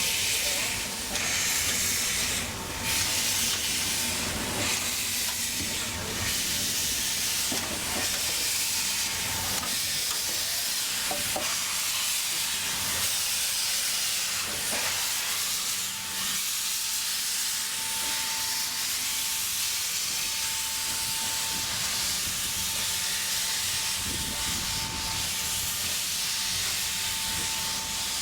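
Steam locomotive hissing steam in a steady, continuous rush.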